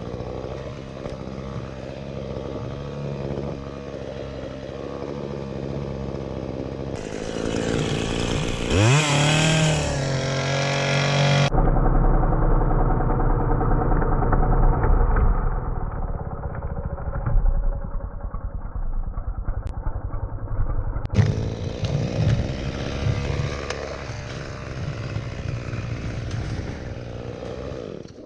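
Chainsaw engine running, revved up sharply about nine seconds in. The sound changes abruptly twice and is muffled for a stretch in the middle.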